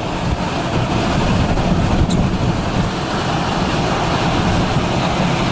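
Strong storm wind blowing, a loud steady rush with a low rumble.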